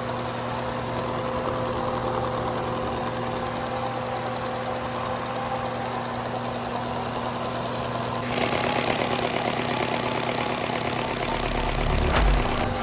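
Lego pneumatic switch-valve engine running steadily with a busy mechanical clatter. About eight seconds in it becomes louder and harsher, with heavier low thumps near the end.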